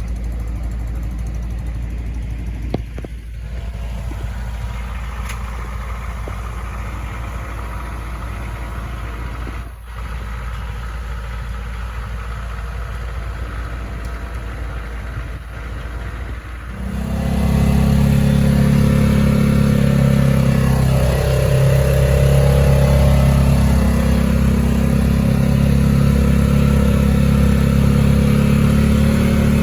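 A steady engine rumble. About seventeen seconds in, a louder engine abruptly takes over and keeps running steadily.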